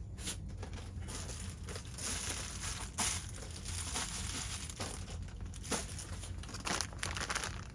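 Crinkling and rustling of packaging being handled, with a few light clicks.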